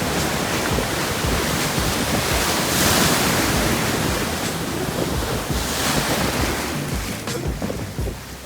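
Rough surf from a typhoon swell breaking and rushing up the shore, with wind buffeting the microphone; the wash swells to its loudest about three seconds in, then eases.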